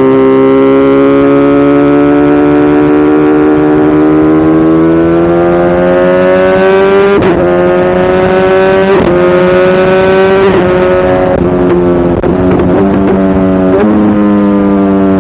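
BMW S1000RR's inline-four engine running under load, its note climbing slowly as the bike accelerates. In the second half it breaks briefly several times with jumps in pitch as gears are changed.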